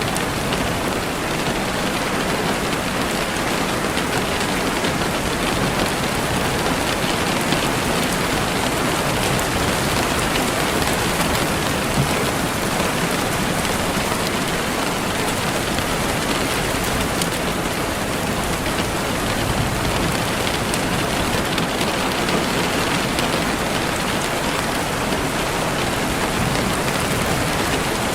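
Steady, even rainfall pattering on surfaces.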